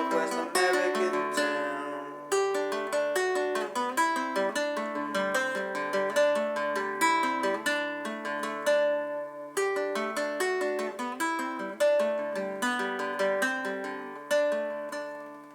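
Acoustic guitar playing a picked instrumental passage without singing: separate notes ringing over low bass notes. The last notes die away near the end.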